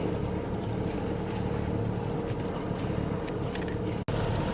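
A sailboat's inboard engine running at a steady speed while under way, with wind on the microphone.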